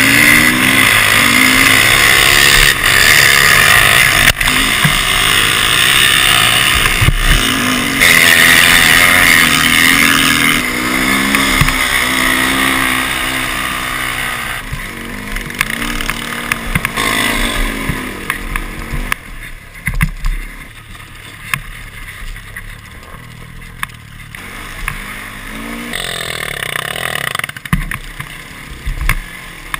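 Enduro motorcycle engine heard from a camera mounted on the bike, revving up and down as the rider works the throttle and gears over a dirt track. It is loud for the first half, then drops in level and turns choppier about two-thirds of the way through, with a steady rushing hiss throughout.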